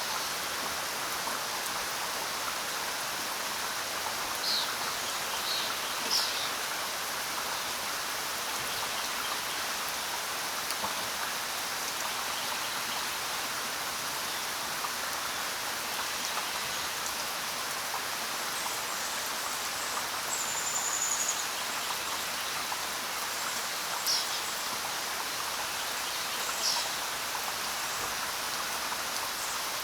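Steady rain falling, with a few brief, high bird chirps scattered through it.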